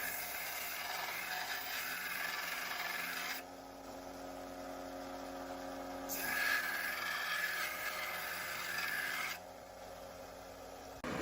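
Metal being abraded, two long scraping passes of about three seconds each with a pause between, over a steady hum.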